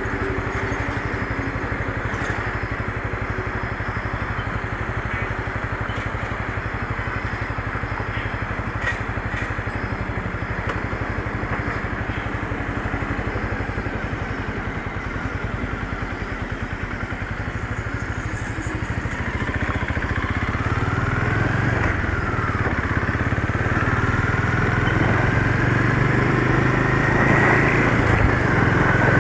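Motorcycle engine running steadily while riding, then revving up from about two-thirds of the way in, its pitch rising and the sound growing louder as it accelerates.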